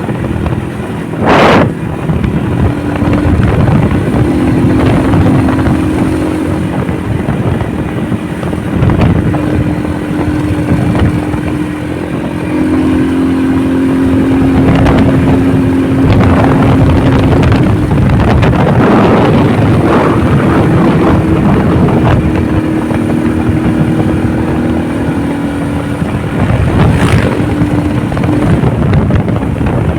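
Motorcycle engine running at road speed, its pitch holding steady and stepping to new levels, with wind rushing over the microphone. Two sharp knocks, about a second and a half in and near the end.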